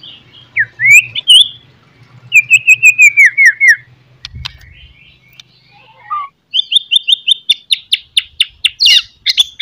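A songbird singing loud, varied whistled phrases. First come rising slurred notes, then a run of about ten quick falling chirps. From about two-thirds of the way in, a fast series of repeated high notes, about five a second, runs to the end.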